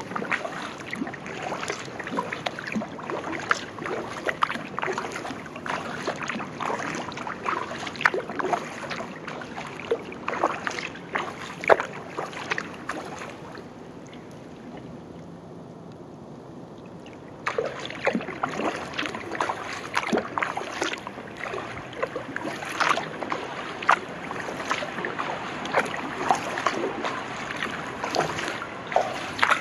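Kayak paddle blades dipping and pulling through the water, with irregular splashes and drips. The splashing stops for about four seconds around the middle, leaving only a soft hiss, then starts again.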